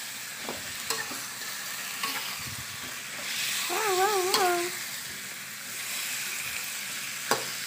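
Fish pieces and spice paste sizzling in a wok, stirred with a metal spatula that scrapes and taps the pan now and then. About halfway a short wavering, voice-like tone sounds.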